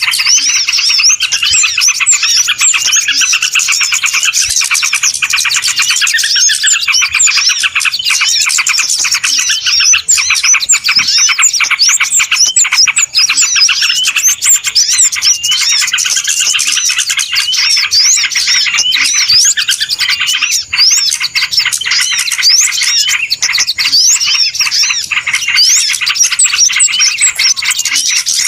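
A dense, loud chorus of many small birds chirping and twittering over one another without a break: a noisy bird-lure (pikat) call recording meant to draw small birds in.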